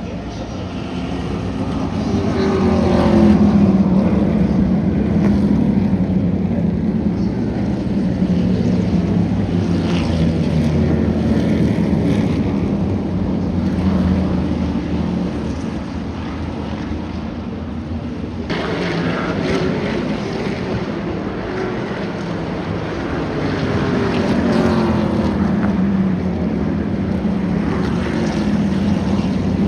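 Trans-Am race cars running at racing speed, their engines going up and down in pitch as they pass, one after another.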